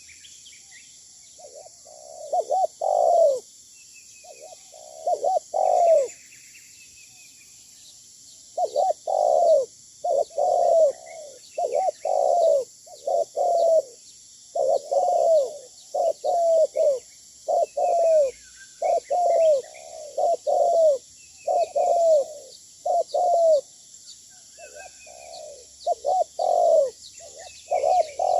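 Spotted doves cooing in short repeated phrases of a few notes each. There are a few phrases early on, a pause, then a phrase almost every second after about eight seconds. Small birds chirp faintly over a steady high hiss.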